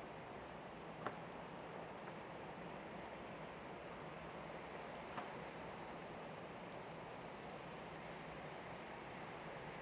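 Steady city street ambience at night, a low, even hum of distant traffic, with two brief clicks about one and five seconds in.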